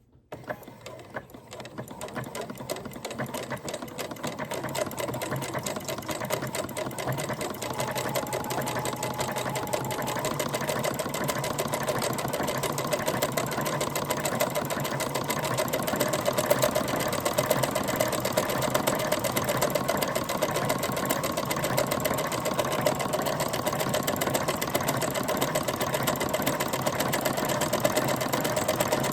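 Janome Memory Craft 9000 sewing machine sewing an overlock stitch along a fabric edge. It starts up and picks up speed over the first couple of seconds, then runs steadily with a rapid, even needle beat.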